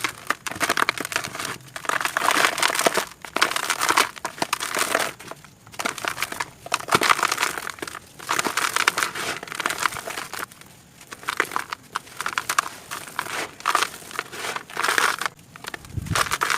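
Crinkling and crunching handled close to the microphone, in repeated bursts of a second or two with short pauses between them. A soft low thud comes near the end.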